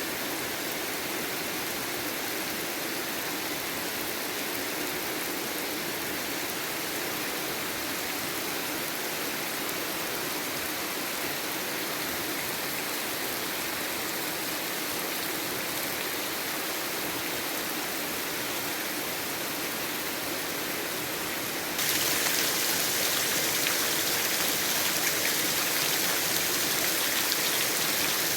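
Heavy rain falling steadily, a dense even hiss. About 22 seconds in it gets abruptly louder.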